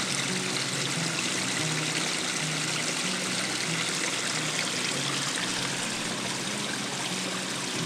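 Waterfall water rushing and splashing in an even, unbroken rush.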